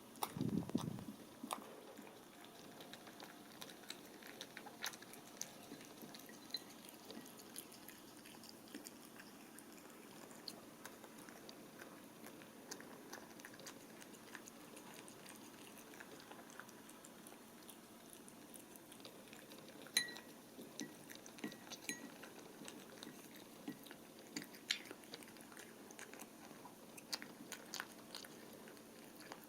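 American Shorthair cat eating soft, wet bonito cat food and paste treat from a dish: quiet, wet lapping and chewing clicks, with a few sharper clicks. A brief low thump about half a second in.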